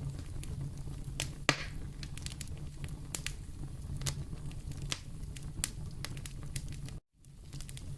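Wood fire crackling in a fireplace: a steady low rumble of the flames with irregular sharp pops and snaps, the loudest pop about a second and a half in. The sound cuts out completely for a moment near the end, then comes back.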